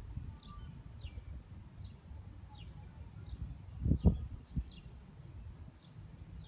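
A bird repeating a short, falling chirp about twice a second over a steady low rumble. A couple of loud low thumps come about four seconds in.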